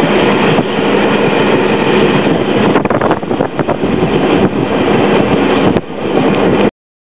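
Train running along the track, heard from on board: a steady rattling rumble with scattered clicks of the wheels over the rails. It cuts off abruptly near the end.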